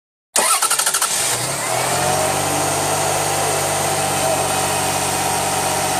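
Toyota 1MZ-FE 3.0-litre V6 in a 2000 Lexus RX300 being cranked by its newly fitted starter motor. It starts about a third of a second in with rapid cranking pulses, catches within about a second, and settles into a steady idle.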